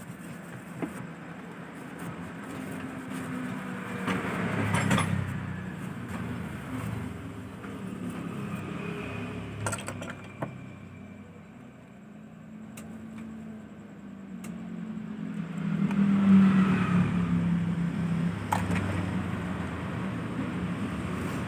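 Engines of passing road vehicles, a steady low drone that swells as they go by, loudest about five seconds in and again around sixteen seconds. A few faint light clicks come in between.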